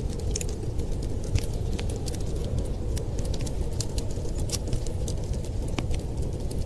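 Wood fire crackling, with many small irregular pops and snaps over a steady low rush.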